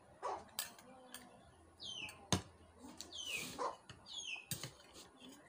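A bird chirping: three short calls, each falling in pitch, with sharp clicks and taps from the table between them, the loudest click about two seconds in.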